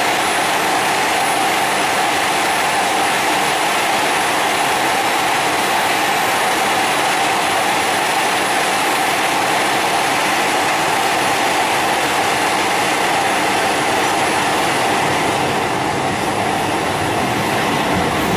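Italo AGV high-speed electric train running along a station platform at close range: a steady, loud rush of wheel, motor and air noise.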